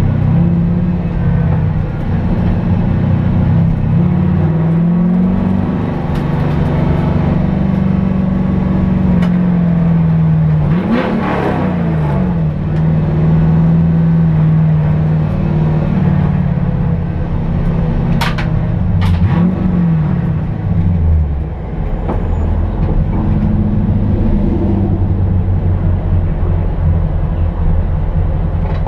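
HSV Clubsport race car's V8 engine, heard from inside the cabin, running at low revs while rolling slowly, with two short blips of revs about eleven and nineteen seconds in, then settling to a steady low idle rumble.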